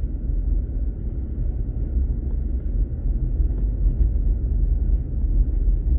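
Steady low rumble of a pickup truck's engine and tyres heard from inside the cab while driving, with a few faint clicks or rattles.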